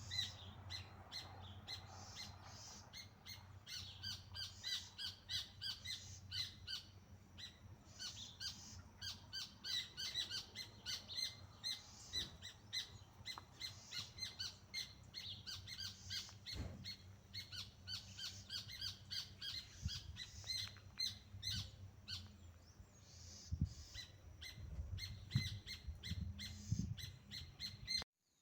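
Birds chirping and calling in a dense chorus of quick short notes, over a low steady hum, with a few low thumps in the last few seconds.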